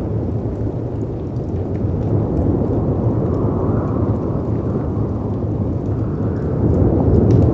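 Steady low rumble of storm wind and sea waves, swelling slightly near the end, with faint crackles from a wood fire ticking above it.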